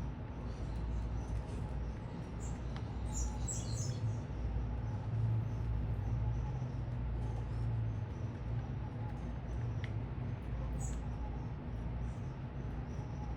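A few short, high bird chirps at a feeder, a cluster about three seconds in and another near eleven seconds, over a steady low city rumble.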